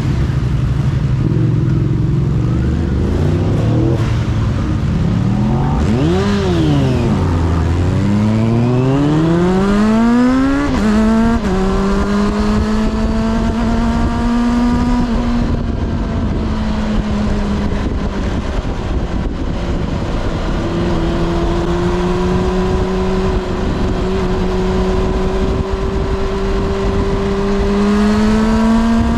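Kawasaki ZXR400 inline-four engine heard from on board. It runs low and rough at first, gives a quick rev blip about six seconds in, then climbs steeply through the revs to a gear change near eleven seconds. After that it holds fairly steady and climbs slowly again to another change near the end, under a constant rush of noise.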